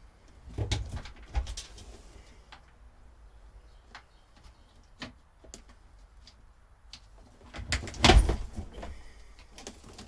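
Scattered knocks and clunks of hands-on work, with a louder clatter about eight seconds in.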